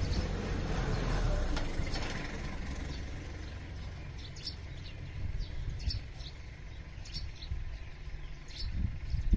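Small birds chirping: short, high notes repeated every half second or so, over a low rumble that fades away over the first few seconds.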